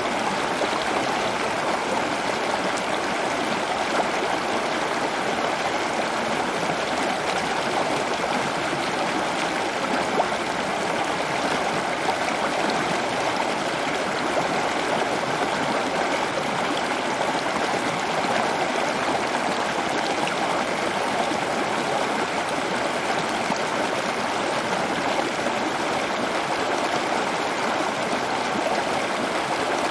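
Running water flowing steadily, an even trickling rush with no breaks.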